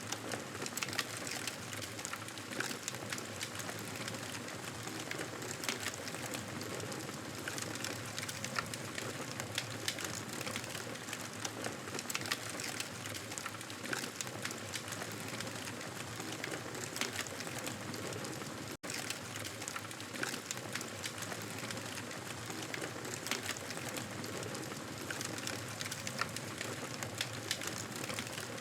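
Wood fire crackling in a fireplace: a steady hiss dotted with frequent small pops and snaps. It drops out for a split second about two-thirds of the way through.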